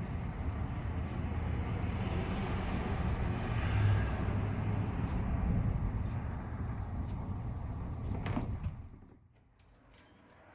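Road-vehicle noise: a steady low rumble with a vehicle passing, swelling about four seconds in and then fading. The sound cuts off abruptly near the end, leaving only faint background.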